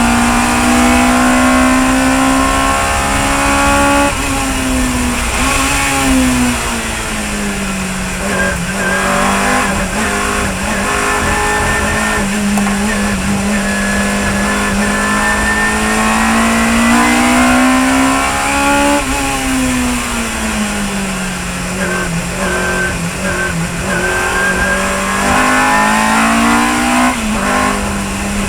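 Chevron B19 sports racing car's engine at speed, its pitch climbing slowly, then dropping sharply with quick throttle blips as it shifts down under braking, about 4, 19 and 27 seconds in.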